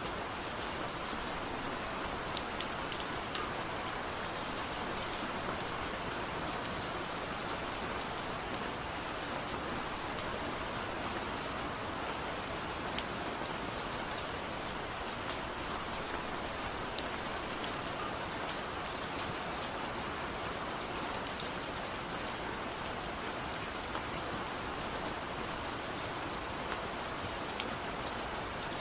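Steady rainfall: an even hiss with many separate drops ticking sharply on a surface throughout.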